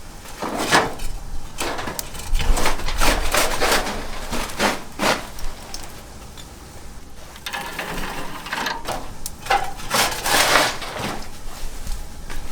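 Charcoal being tipped and shuffled in a barbecue grill: a run of irregular crunching, rattling bursts with a quieter pause in the middle.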